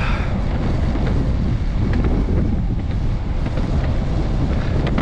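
Strong wind buffeting the camera's microphone: a loud, steady low rumble.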